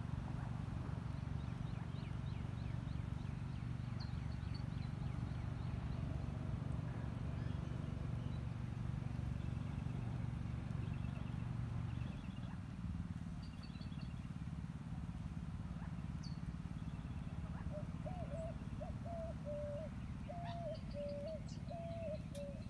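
Woodland birds chirping and calling over a steady low rumble. Near the end one calls in a run of short whistled notes that step up and down in pitch.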